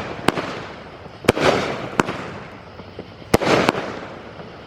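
Consumer fireworks going off in a series of about five sharp bangs, roughly a second apart, each trailed by a fading crackle.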